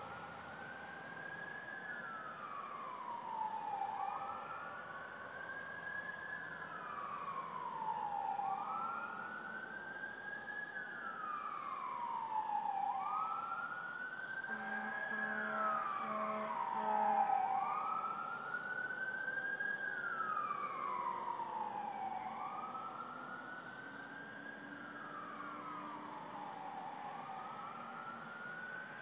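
Emergency vehicle sirens in wail mode, each slow rise and fall taking about four seconds, with a second, fainter siren sounding higher above the first. About halfway through come three short, low horn blasts.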